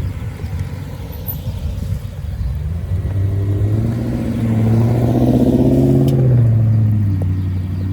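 A custom car with an aftermarket exhaust drives past with a low exhaust note. The sound grows louder as the car approaches, is loudest about five to six seconds in, then fades with a slight drop in pitch as the car moves away.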